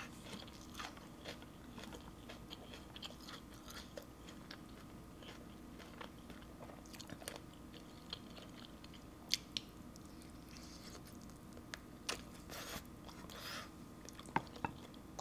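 Close-up eating sounds: a person chewing grilled chicken wing with small wet crunches and scattered sharp clicks, a few of them louder, about 9, 12 and 14 seconds in, as meat is pulled apart by hand.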